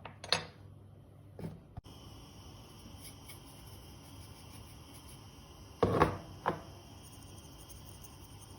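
Kitchenware being handled: a few short knocks and clatters, the loudest pair about six seconds in, followed by another knock.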